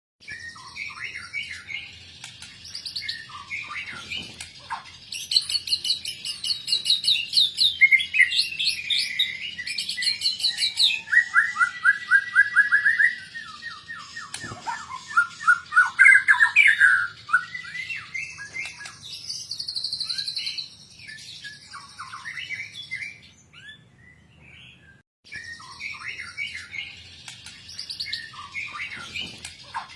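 White-rumped shama (murai batu) singing a long, varied song of rapid trills, clear whistles and chattering phrases, packed with mimicked calls ('full isian'). A quieter lull comes about three-quarters of the way through before the song resumes.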